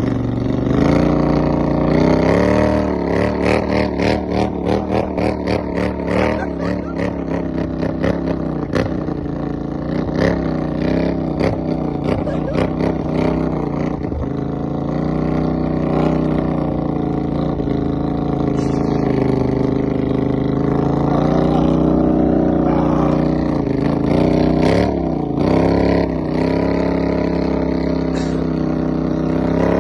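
Off-road vehicle engine running hard, its revs rising and falling throughout, with a stretch of regular pulsing in the first third.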